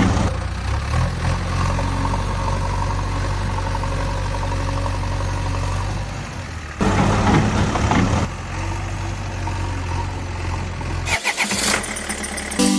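A vehicle engine running steadily with a low hum, with a louder burst about seven seconds in that lasts about a second and a half. The hum stops about eleven seconds in and gives way to sharper ticking sounds.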